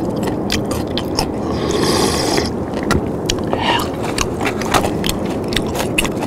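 Close-miked chewing of crunchy food: a dense run of crisp crackles and clicks over a steady low background noise.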